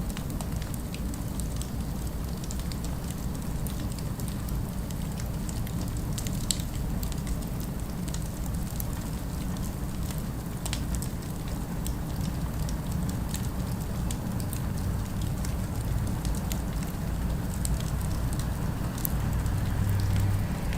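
Fire crackling with many small, scattered pops over a steady low rumble of distant city ambience.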